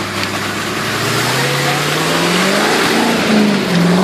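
Classic Range Rover's engine revving up as it pulls away through deep mud. The engine note climbs steadily for about two seconds, drops briefly, then climbs again near the end.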